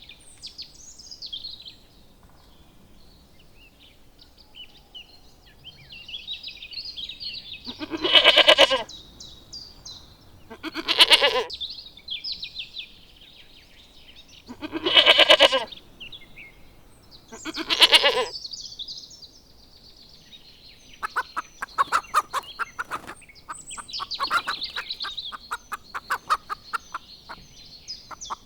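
A farm animal gives four loud calls, each about a second long, with small birds chirping throughout. A run of rapid clicking follows near the end.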